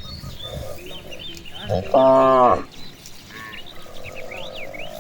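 A cow mooing once: a single loud call of about a second, dropping slightly in pitch at its end.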